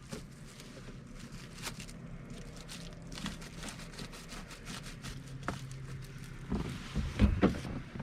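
An engine running with a steady low hum, under scattered clicks and knocks, and a cluster of louder thumps about six and a half to seven and a half seconds in.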